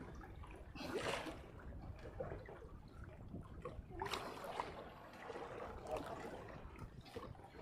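Seawater sloshing and lapping against a small fishing boat's hull, with louder splashes about a second in and about four seconds in.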